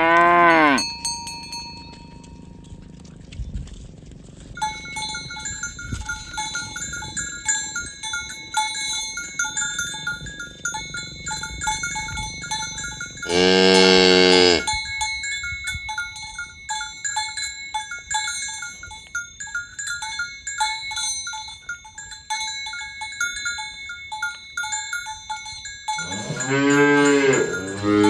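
Cattle mooing: one long moo about halfway through and another near the end, with the tail of a call at the very start. From a few seconds in, cowbells clank and ring steadily between the calls as the cows walk.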